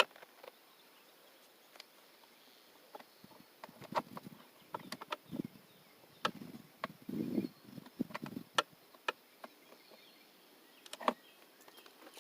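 Faint, scattered clicks and light knocks, with a few short rustling bursts in the middle, over a quiet background.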